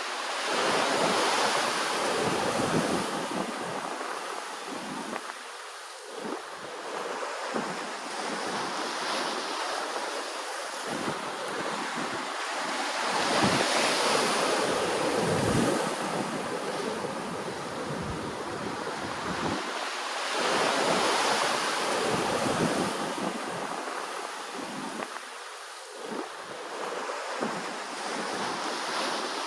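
Ocean waves washing ashore in a continuous rushing wash that swells and eases, with bigger surges near the start, about halfway through (the loudest), and about two-thirds of the way through.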